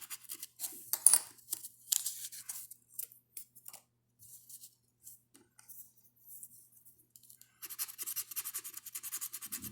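Scratch-off lottery ticket being scratched: a few separate scrapes early, only scattered ones in the middle, then a fast run of scratching strokes from about two-thirds of the way in.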